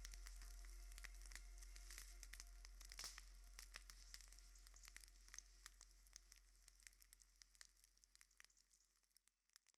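Faint crackling and hiss over a low hum, fading gradually to silence near the end.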